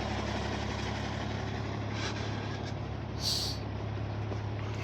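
Heavy emergency vehicle's diesel engine idling steadily, with a short hiss a little over three seconds in.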